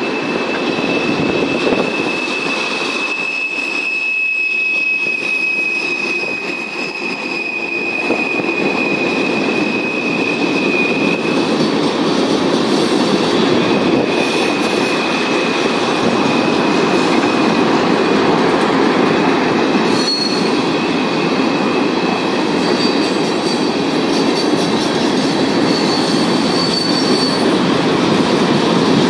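Freight train of tank cars rolling steadily past, its steel wheels running on the rails in a continuous rumble. A thin, high wheel squeal runs over it, fading out about a third of the way through and coming back a few seconds later.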